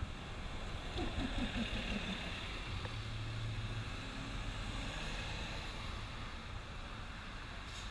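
Steady vehicle noise: a low rumble under an even hiss.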